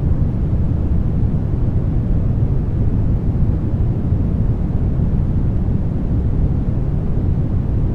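Steady brown noise: a deep, even rumble-like hiss with most of its weight in the low end, unchanging throughout.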